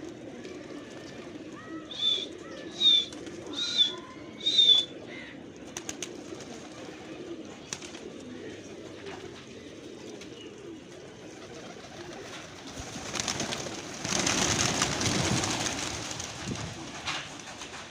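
Domestic pigeons cooing steadily, with four short high-pitched calls between about two and five seconds in. A broad rustling noise rises about two-thirds of the way through and fades after a few seconds.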